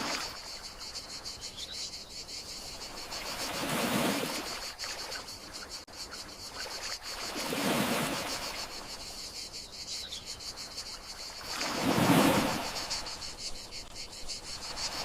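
Gentle sea waves washing in about every four seconds, each a soft swell that rises and fades, over a steady high trill of crickets.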